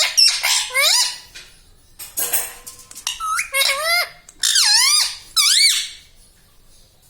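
Indian ringneck parrot giving a rapid run of high, squeaky calls that sweep up and down in pitch, stopping about six seconds in.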